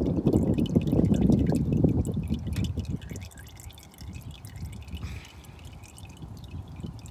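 Warm engine oil draining from a lawn mower engine's drain hole and splashing into an oil pan, louder for about the first three seconds and then quieter.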